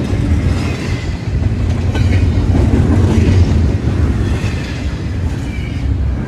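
Metra commuter train running through the station: a loud, steady rumble of wheels on the rails with faint high tones above it.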